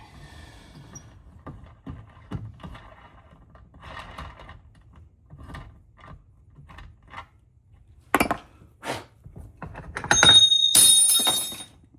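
Metal-on-metal workshop handling of a steel linkage part and hand tools at a bench vise: scattered light clicks and scrapes, two sharp knocks about eight and nine seconds in, then a loud metallic clatter with ringing near the end.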